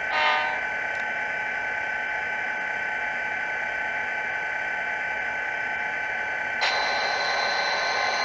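HO-scale model diesel locomotive's sound decoder playing through its small stock speaker: a short horn blast at the start, then a steady synthetic diesel hum with hiss and high whine, and about six and a half seconds in a louder hiss with a high, slowly falling tone comes in.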